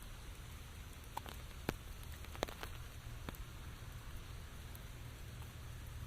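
Steady rain falling, with a few sharp drops striking close by, the loudest about two seconds in.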